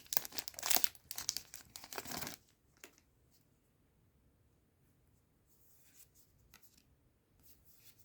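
A foil trading-card booster pack being torn open, crinkling for about two seconds, followed by faint rustles as the cards are handled.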